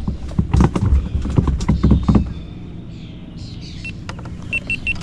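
A quick run of irregular knocks and clatter, from handling on a kayak, for about two seconds, then quieter, with a few short high beeps near the end.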